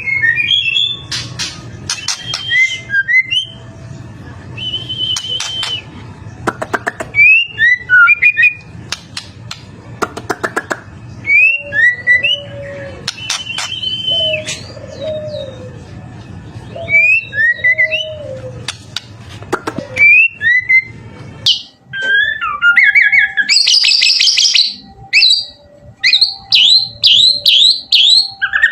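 White-rumped shama singing a varied, loud song of clear whistles, quick rising and falling sweeps and short trills, over a low steady hum. Near the end it switches to a fast high trill and a rapid run of down-slurred notes.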